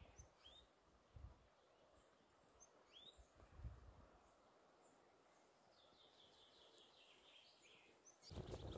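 Near silence in the open air with faint birdsong: a few short rising chirps, then a fast trilled phrase, and some soft low bumps. A louder rustling noise starts near the end.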